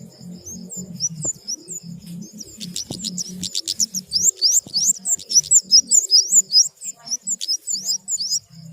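Flowerpeckers (kemade) calling: a rapid stream of very high, thin, rising chirps, several a second, thickest from about two and a half seconds in until near the end.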